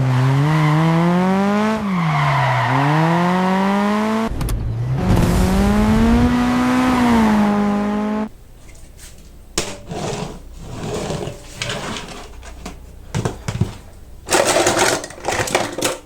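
Car engine revving loudly twice, each rev climbing and falling in pitch over about four seconds. Then quieter clicks and rattles, with a short loud hiss a couple of seconds before the end.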